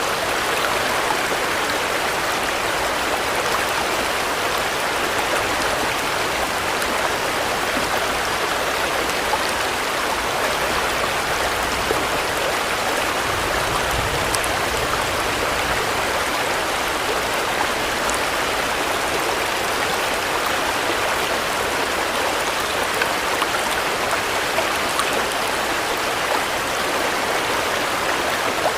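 Steady rain falling, a dense, even hiss that stays level throughout.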